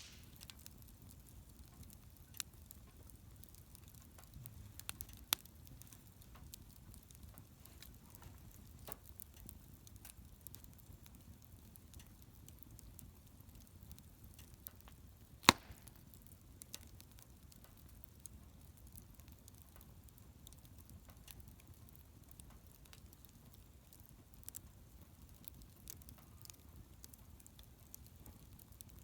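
Wood bonfire crackling quietly, with scattered small pops and one sharp, loud crack about halfway through.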